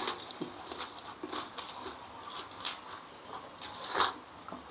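Close-miked mouth sounds of a person chewing a mouthful of food, with scattered wet smacks and clicks; about four seconds in, one louder sip from a plastic cup.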